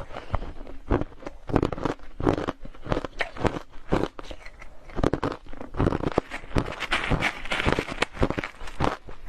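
Close-up crunching of hard crushed ice being bitten and chewed, a rapid run of sharp cracks, denser a little past the middle.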